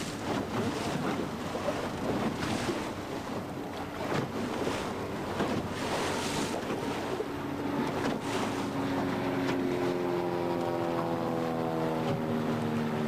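Wind buffeting the microphone over water noise on a boat, with gusts coming and going. About two-thirds of the way in, a boat motor comes up, its pitch dropping and then holding steady.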